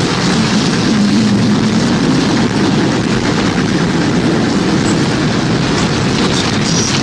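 Tornado sound effect: strong wind making a loud, steady, deep rumble, with no clear siren heard.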